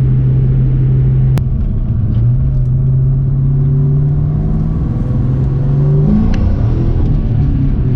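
2004 Ford Mustang Mach 1's 4.6-litre four-valve V8 running under way, with a sharp click about a second and a half in as the engine note drops, then picks back up. About six seconds in the revs climb quickly and fall back, as the rear tyres spin on the wet road.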